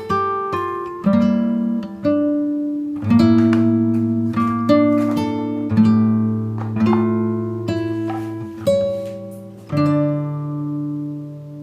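Background music on acoustic guitar: strummed chords that ring out and fade, a new chord about every second.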